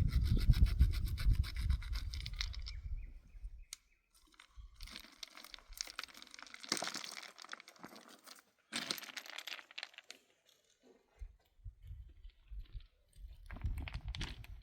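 Irregular rustling and scraping, with a low rumble in the first few seconds.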